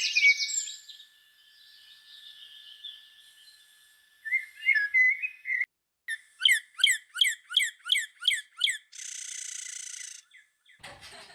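Songbirds singing: a burst of busy chirping, then quieter scattered chirps, then a series of about eight repeated down-slurred whistled notes, followed by about a second of high, even buzzing. The sounds change abruptly twice, as if separate outdoor recordings were edited together.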